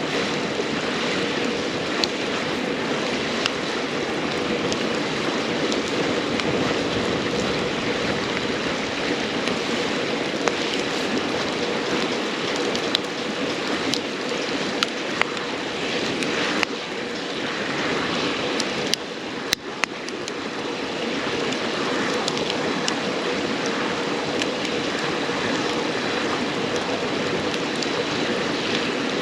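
River water flowing and babbling steadily, with sharp scattered pops and crackles from burning firewood in a campfire.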